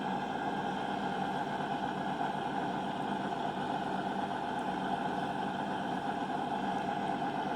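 Diesel passenger train's engines idling steadily while it stands at the platform, a constant even hum.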